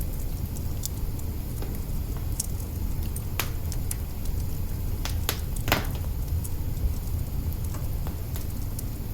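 Wood fire burning in an open kitchen hearth: a steady low rumble of flames with scattered crackles and pops, a few sharper pops near the middle.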